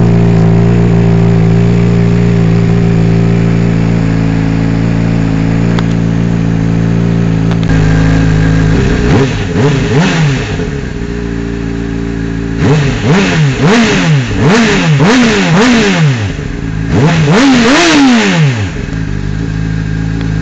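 2007 Honda CBR600RR inline-four engine with a Devil aftermarket exhaust, idling steadily, then blipped: a few quick revs about nine seconds in, a rapid run of about six short revs a little later, and one longer rev near the end, each dropping straight back to idle.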